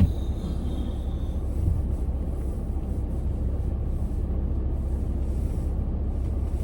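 Car on the road, giving a steady low rumble of engine and road noise.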